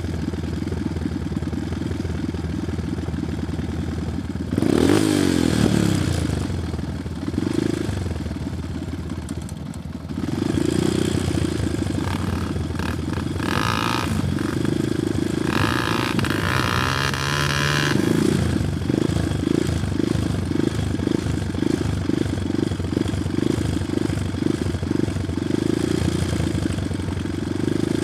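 Honda Tornado 250's single-cylinder four-stroke engine running and revving hard while the bike is bogged in mud. There is a sharp burst of throttle about four and a half seconds in, then near the end repeated throttle bursts about twice a second as the rider tries to drive it out.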